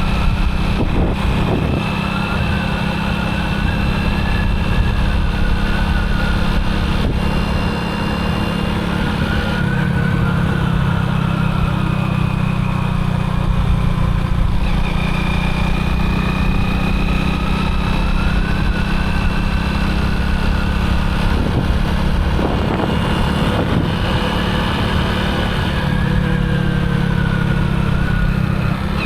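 Motorcycle engine running steadily while being ridden, its low note shifting a few times.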